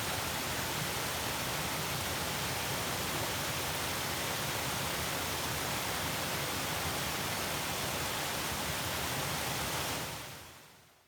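Waterfall: a steady rush of falling water, which fades smoothly out near the end.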